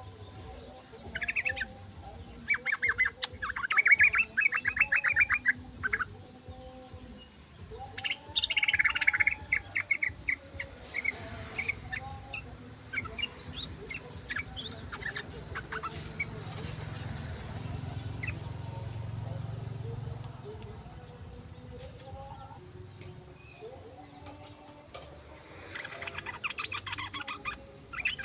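Yellow-vented bulbul (trucukan) singing in bursts of fast chattering song: two bursts in the first third, fainter scattered calls through the middle, and another burst near the end.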